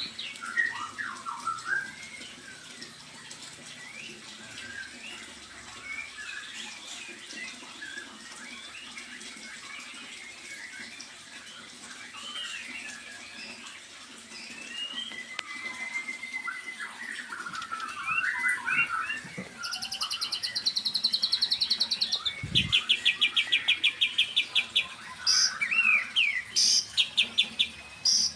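Small songbirds chirping and twittering with many short rising and falling calls. From about twenty seconds in, fast rattling trills come in, louder than the chirps, followed by a run of sharp, loud calls near the end.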